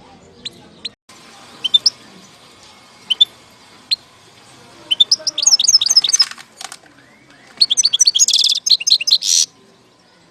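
European goldfinch singing: a few sharp single chirps, then two fast twittering phrases about halfway through and near the end, each closing in a buzzy trill.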